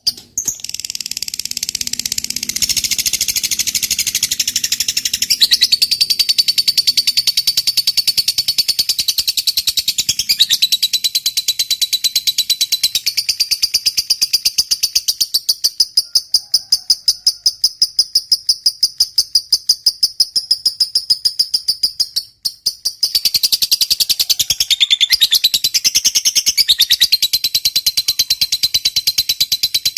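Lovebird's long chattering song (ngekek panjang): a continuous, very fast run of high-pitched chirps. It breaks off briefly about 22 seconds in, then starts again.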